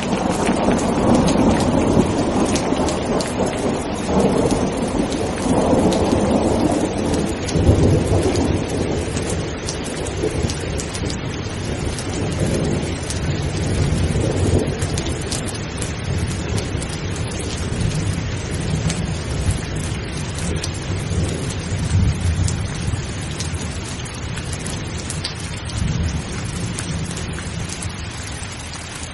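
Steady heavy rain with drops pattering on a surface, under long rolling thunder that rumbles loudest over the first several seconds and slowly dies away towards the end.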